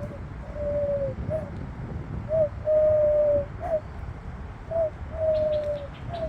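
A dove cooing: a three-note coo, short, long and short, repeated three times. A smaller bird chirps faintly near the end.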